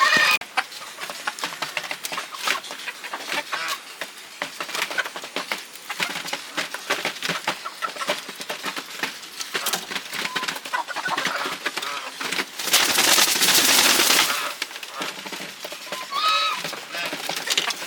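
Bantam chickens clucking and scratching about in a coop, with a loud burst of rustling noise about three-quarters of the way through and a short squawk near the end.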